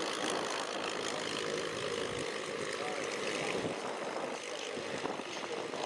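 Engines of early vintage race cars running on the oval, a steady noisy engine sound without clear breaks.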